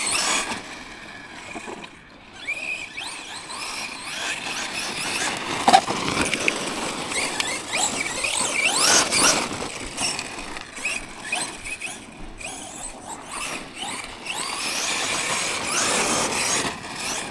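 Electric motor of a Tekno MT410 2.0 1/10 RC monster truck whining up in pitch again and again with bursts of throttle, over the rattle of the truck running across rough, rocky ground. A sharp knock comes about six seconds in.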